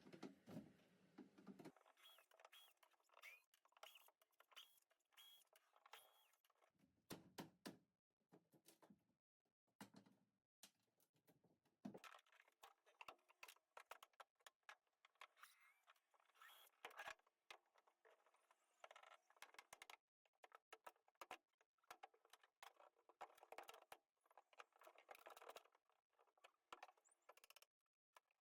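Faint, irregular clicks, knocks, rattles and scrapes of hand work on loose parts and wiring, with a few dull thuds.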